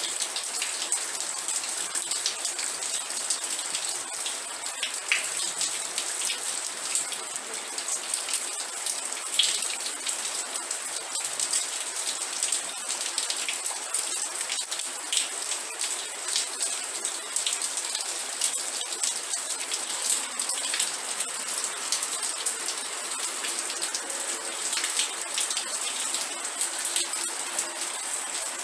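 Steady rain falling, with many separate drops striking a surface as small irregular ticks over an even hiss.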